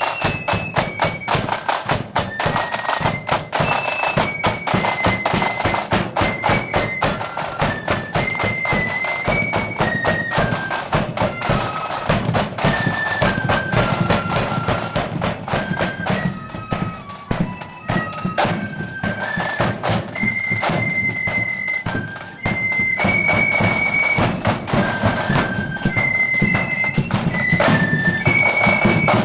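Marching flute band playing a tune in unison, the high flute melody carried over drums beating time.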